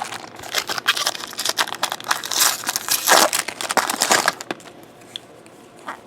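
Plastic wrapper of a Bowman Draft jumbo trading-card pack crinkling and tearing as the pack is opened and handled, dense crackling for about four and a half seconds, then only a few light clicks.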